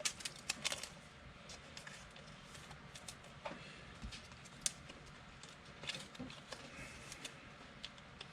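Trading cards being handled and flipped through: soft, irregular clicks and flicks, with a quick cluster right at the start.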